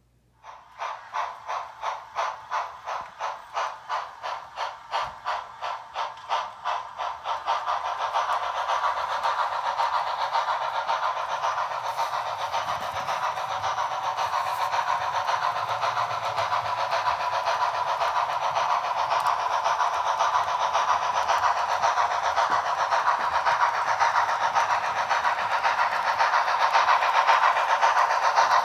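Steam locomotive chuffing as it pulls away: distinct exhaust beats about two a second for the first seven seconds or so, then running together into a steady rushing noise that slowly grows louder.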